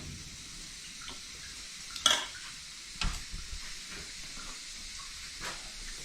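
Chicken sizzling as it fries in a pan, with a utensil scraping and clinking as it is stirred; a louder clank about two seconds in and another about a second later.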